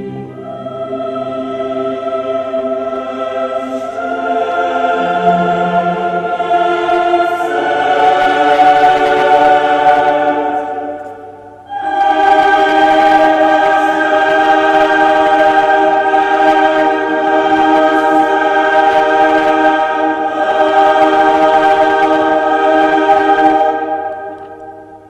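Choral music: voices hold long, swelling chords that shift a few times. The music falls away for a moment about 11 seconds in, comes back loud on a new chord, and fades near the end.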